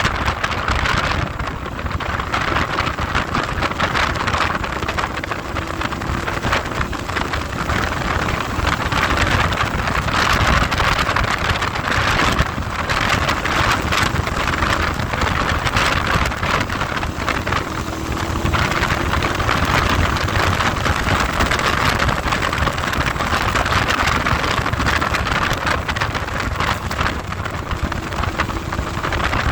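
Heavy wind noise buffeting the microphone on a moving ride, with a faint engine note rising and falling underneath.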